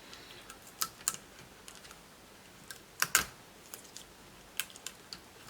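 Scattered light plastic clicks and taps from handling laptop parts during disassembly, with a louder double click about three seconds in.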